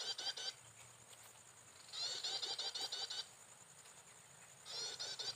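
Prinia song: short phrases of rapid, repeated high chirping notes, heard three times at a steady spacing of about two and a half seconds.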